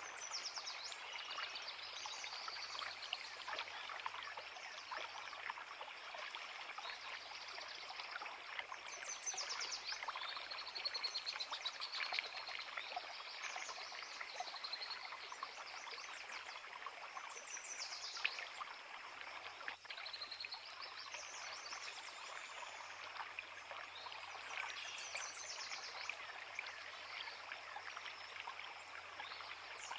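A forest creek babbles steadily over rocks while birds sing short chirps and trills on and off above it. A single sharp tick sounds just past halfway.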